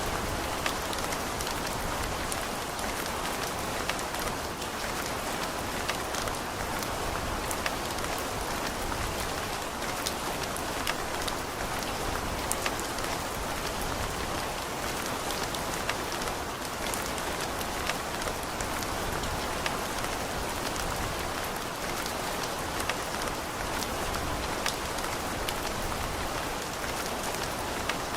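Steady rain falling, a dense even hiss with many separate drop ticks scattered through it.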